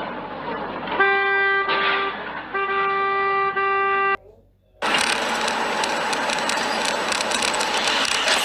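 Car horn honking: a short blast about a second in, then a longer held blast. After a brief silence, a steady rush of vehicle and road noise follows.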